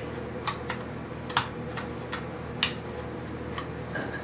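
Small, sharp, irregular clicks and ticks, about two a second, from hand tools and parts being worked on a vintage wire recorder's chassis while a component is fitted between crowded terminals. A steady faint hum runs underneath.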